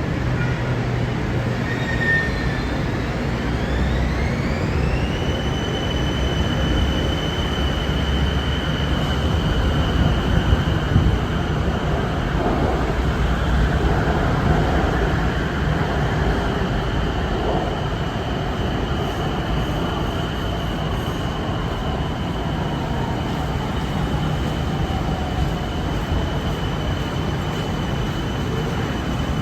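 Bangkok BTS Skytrain EMU-A2 electric train running past, with a rumble of wheels on rail that is loudest near the middle. Over it a high whine from the train's drive rises for a couple of seconds and then holds at one steady pitch, dropping away only at the very end.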